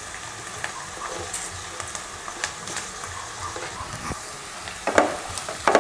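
Shredded cabbage and sliced onions sizzling in oil in a non-stick kadai, with scattered small crackles. A wooden spatula scrapes through the mix a few times about five seconds in.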